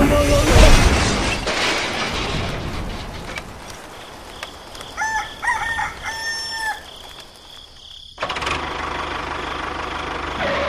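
A rooster crowing once, in three short pitched parts about five seconds in, over a fading rumble. A steady hissing noise starts about eight seconds in.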